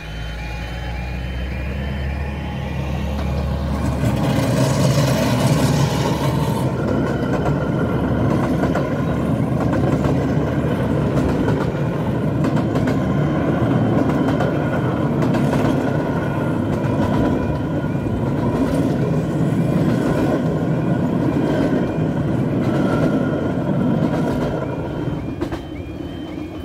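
Miniature 15-inch-gauge train of the Romney, Hythe & Dymchurch Railway passing over a level crossing. The sound builds over the first few seconds into a steady rumble and clatter of wheels on the rails that lasts about twenty seconds, then fades near the end. The crossing's warbling warning alarm is faintly audible at the start and end.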